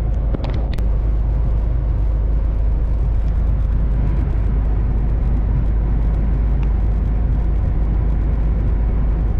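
Steady engine and road noise of a MAN TGX truck driving on the motorway, heard from the cab, with a couple of brief clicks about half a second in.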